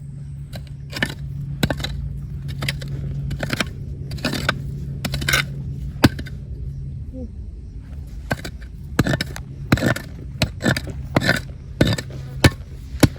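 Rocks and gravel being dug and shifted with a hand tool: irregular sharp clinks and knocks with scraping, coming faster and louder in the second half, over a steady low hum.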